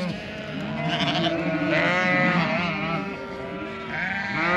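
A flock of sheep and lambs bleating, many calls overlapping one another, as lambs are separated from the ewes for weaning.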